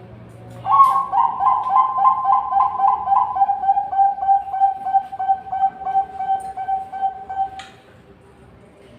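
Zebra dove (perkutut, Bangkok line) cooing: a long run of quick, pulsing coos, about three a second. The coos start higher and step down in pitch over the first few seconds, then hold steady until they stop near the end.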